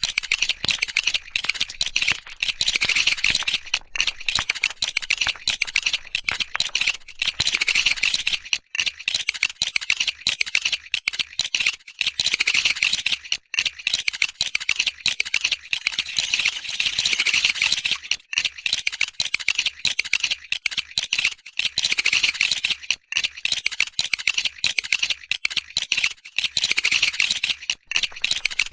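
Lego bricks and minifigure parts being pulled apart and handled: a dense, continuous run of small plastic clicks and rattles.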